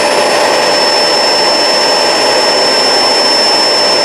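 Kenmore Crossover Ultra upright vacuum running steadily on carpet: a loud rush of air from the suction motor with a thin, steady high whine over it.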